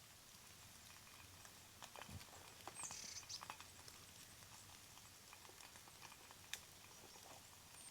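Near silence with a few faint, scattered clicks and taps, and one short, high falling chirp about three seconds in.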